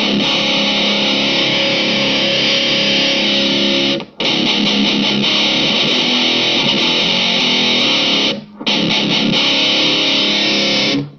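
Electric guitar through a Nux MG200 modeller on its high-gain SS Weapon amp model with a V30 4x12 cab, heard from a hi-fi soundbar: heavily distorted chords ringing out in three long phrases, with brief stops about four and eight seconds in, and cutting off sharply at the end.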